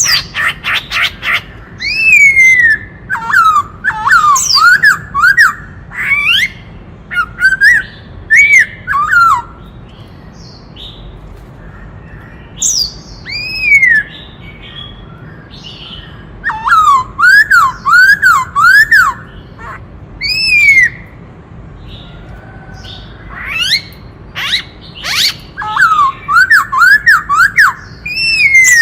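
Black-throated laughingthrush singing loudly: whistled phrases of quick up-and-down notes, often in runs of four to six, mixed with sweeping higher calls and a rattle of short sharp notes at the start, with brief pauses between phrases.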